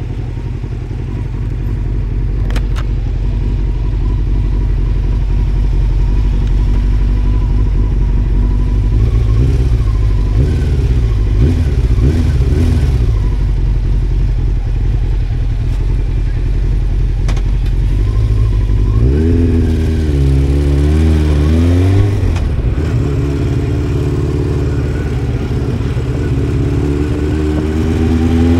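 Honda CBR600F inline-four engine running under way with a steady low drone. About two-thirds through, it revs up, drops and climbs again as the bike accelerates through the gears, then rises once more near the end.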